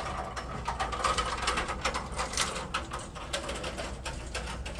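Small wheeled utility cart rattling and clicking as it is pushed across a hard store floor, with many irregular clicks over a steady low hum.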